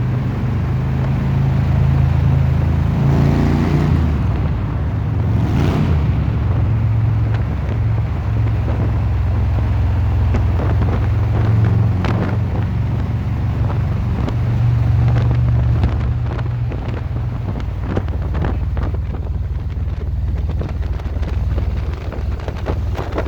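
Harley-Davidson V-twin motorcycle engine running steadily while riding, with wind buffeting the microphone.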